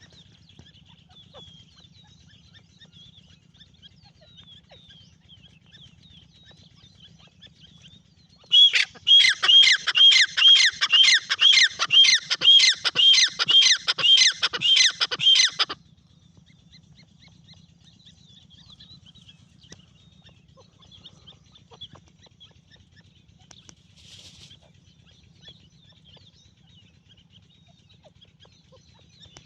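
Francolin (teetar) calling: a loud series of rapid, evenly repeated high notes, about three a second, starting about eight seconds in and lasting about seven seconds. Faint high chirping and a low hum run underneath.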